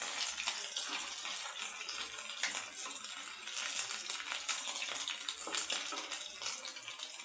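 Potato cubes sizzling in hot ghee with cumin seeds in a non-stick kadhai, a steady crackling hiss. A wooden spatula stirs them, with frequent small scrapes and taps against the pan.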